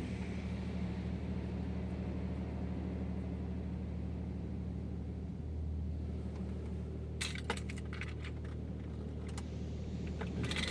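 Steady low mechanical hum, with a brief cluster of sharp clicks and rattles about seven to nine and a half seconds in.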